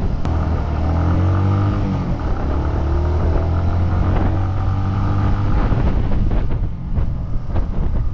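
Suzuki GN125's single-cylinder four-stroke engine running, its note dipping and rising around two seconds in, then holding steady. The steady note gives way to irregular clicks and knocks near the end.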